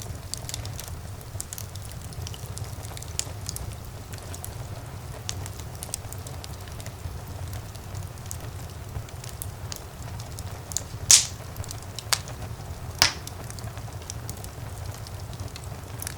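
Fire in a fireplace crackling steadily over a low rumble, with three louder pops close together near the end.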